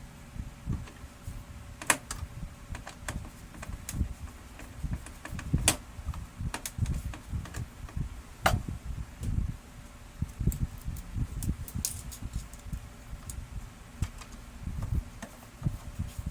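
Irregular clicks, light taps and low knocks of laser printer parts being handled during disassembly or reassembly, with a few sharper clicks about two, six and eight and a half seconds in.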